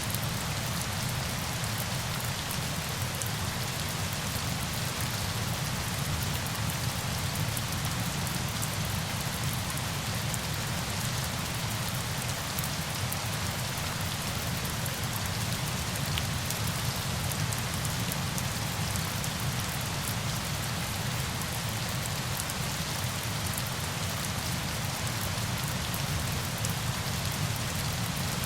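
Steady rain falling: an even, unbroken hiss of water dotted with fine drop ticks, over a low rumble.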